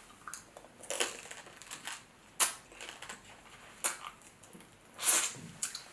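Close-up eating sounds: crab shells being cracked and broken apart, with several sharp cracks a second or so apart and a longer crunching, wet sound near the end.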